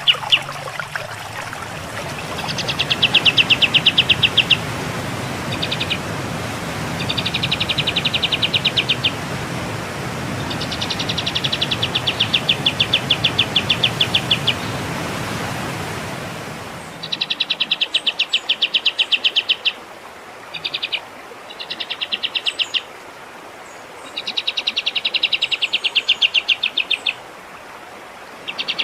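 A songbird singing in repeated bursts of rapid, evenly pulsed high-pitched trills, each lasting one to three seconds with short gaps between them. A steady hiss behind the song cuts off abruptly a little past halfway, as at an edit to a cleaner recording.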